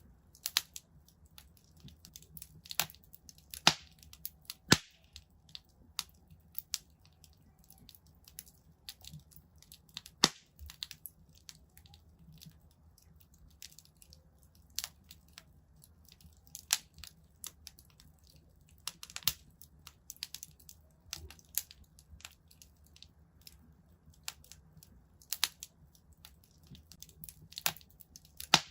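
Wood fire crackling in a fireplace: irregular sharp pops and snaps of burning logs, several louder pops scattered through, over a faint low rumble of the flames.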